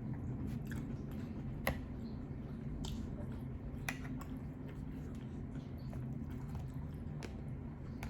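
A person chewing a mouthful of sushi, with a few sharp, wet mouth clicks spaced a second or more apart.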